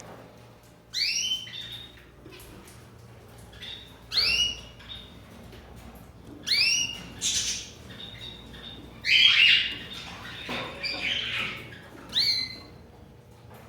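Pet birds squawking: short, loud calls that arch up and down in pitch, about seven of them at intervals of one to three seconds, with a denser run of calls a little past the middle.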